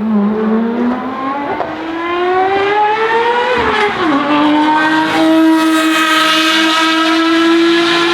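Ferrari FXX Evoluzione's V12 engine accelerating hard on track: the revs climb, drop sharply at an upshift about four seconds in, then pull high again as the car grows louder.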